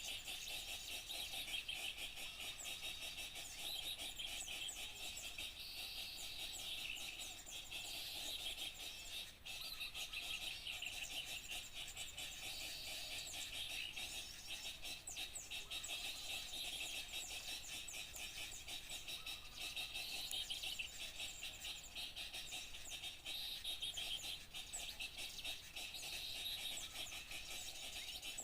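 A dense, continuous chorus of many small songbirds chirping and twittering over one another without a break, a bird-lure recording meant to draw small birds in.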